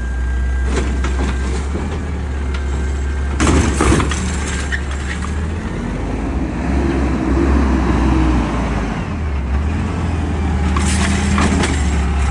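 Peterbilt 520 garbage truck's diesel engine running steadily, revving up and back down partway through, with a few sharp clanking knocks.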